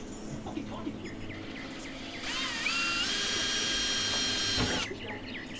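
Cordless drill with a 1/8-inch bit drilling a pilot hole in the steel fender of a VW Beetle. About two seconds in, the motor spins up with a rising whine, runs steadily for about two and a half seconds, and stops, with a short knock just before the end.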